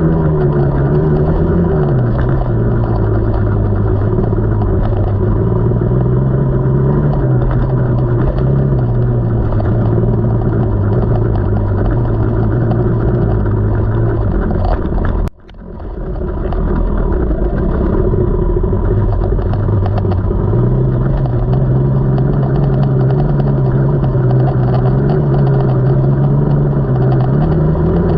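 KTM 300 two-stroke single-cylinder dirt bike engine running under way on a trail, its pitch rising and falling as the throttle is worked. The sound drops out sharply for a moment about halfway, then comes back.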